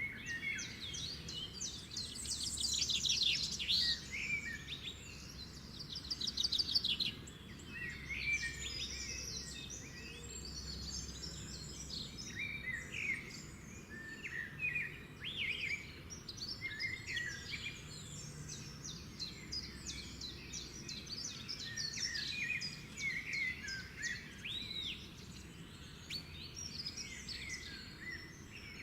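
Several birds singing and calling at once, a dense mix of chirps, rapid trills and short whistles, busiest in the first few seconds, over a faint steady low background noise.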